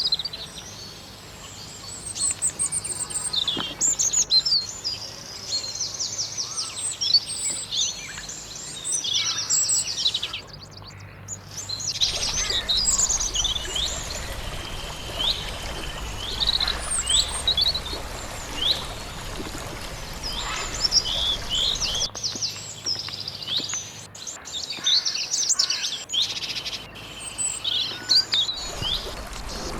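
Several songbirds chirping and singing: many short high chirps, quick sweeping notes and fast trills overlapping, over a steady background hiss.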